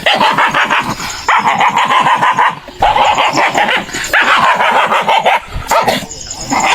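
Dog barking and growling in harsh runs about a second long, with short breaks between them.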